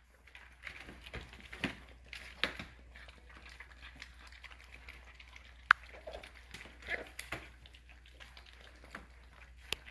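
A litter of bully puppies eating, with faint, scattered chewing and lapping clicks and one short high squeak a little past halfway.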